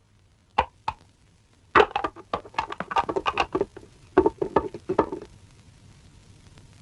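Two sharp knocks, then a fast, uneven run of knocking and clattering lasting about three and a half seconds, stopping suddenly.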